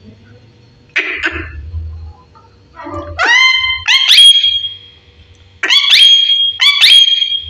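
Pet parrot calling in loud, shrill bursts: a rough call about a second in, then two runs of calls that rise sharply into a held high whistle-like tone.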